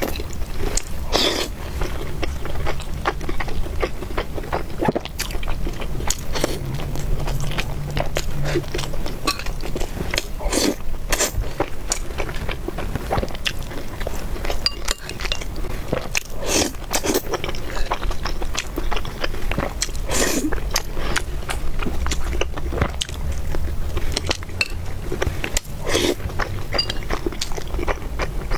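Close-miked eating sounds: a person chewing and biting food, heard as many short, irregular clicks, over a steady low hum.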